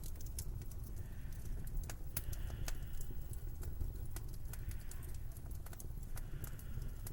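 Footsteps crunching through snow, one soft crunch every second or so, with sharp little crackles, over a steady low wind rumble.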